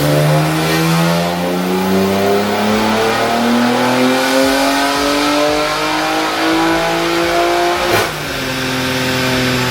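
BMW G80 M3's S58 twin-turbo straight-six at full throttle on a chassis dyno, its revs climbing steadily through one long pull. About eight seconds in, a sharp crack, and the pitch drops away.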